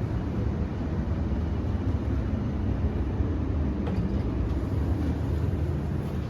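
Steady low machinery rumble with air-handling noise, even throughout with no clicks or chimes.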